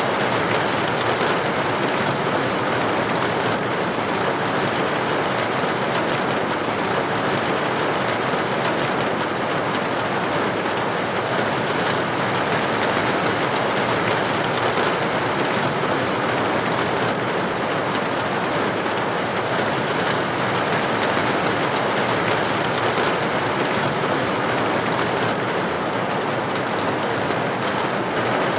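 Steady rain falling and pattering on a window pane, an even hiss with no breaks.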